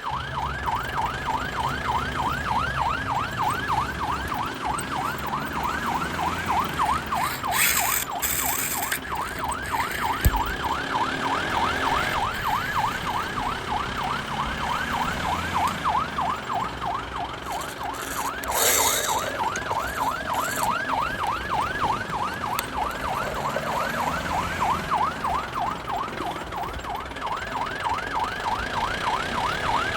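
Toy police car's electronic siren, yelping in fast repeated rising sweeps, several a second. Short hissing noise bursts break in at about 8 and 19 seconds.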